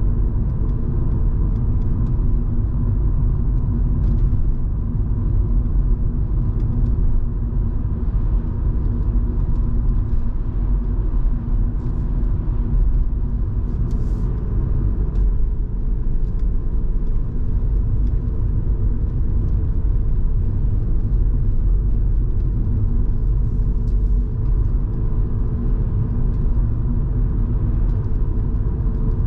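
Inside the cabin of a Volvo V70 2.5T on the move: steady low rumble of the turbocharged five-cylinder engine and tyre noise, with a faint steady higher tone and scattered faint ticks.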